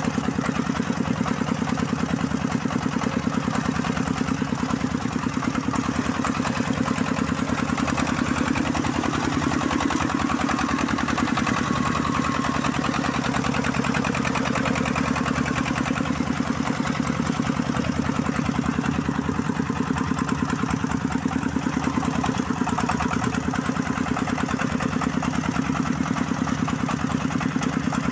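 Single-cylinder diesel engine of a công nông farm truck running steadily, a rapid, even chugging.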